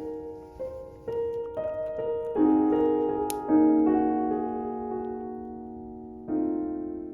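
Background music on solo piano: slow single notes and chords, each struck and left to ring and fade.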